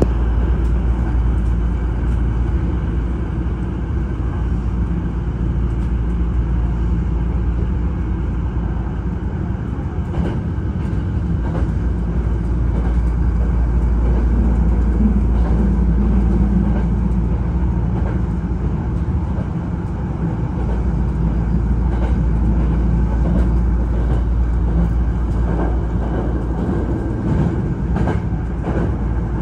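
Hankyu limited express train running, heard from inside the passenger car: a steady low rumble of the wheels on the rails, with occasional short clicks from the wheels.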